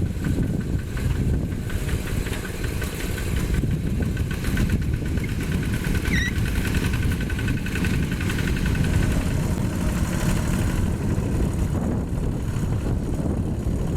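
Yanmar single-cylinder diesel engine of a Quick G1000 walking (hand) tractor running steadily while pulling a plough through topsoil.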